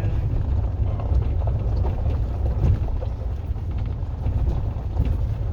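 Steady low rumble of a Tesla Cybertruck driving off-road, tyre and wind noise with a few faint ticks.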